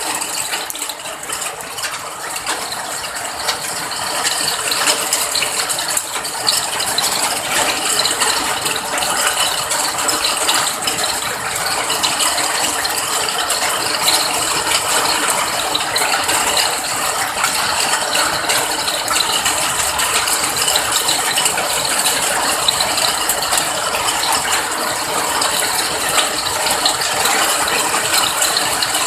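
Rain falling steadily, a dense patter of countless drops, growing a little heavier about four seconds in.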